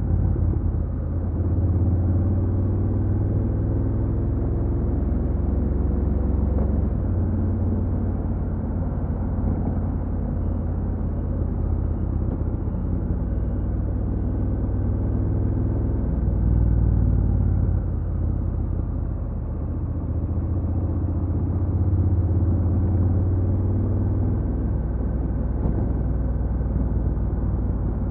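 Honda NC750X's parallel-twin engine running through its stock exhaust while riding, a steady low drone whose pitch slowly rises and falls with engine speed.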